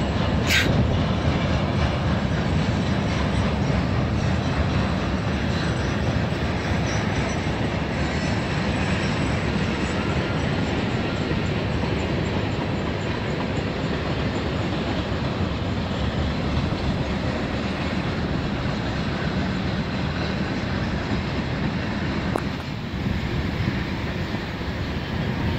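Mixed freight train of flatcars, tank cars and covered hoppers rolling past at steady speed: a continuous, even noise of steel wheels running on the rails.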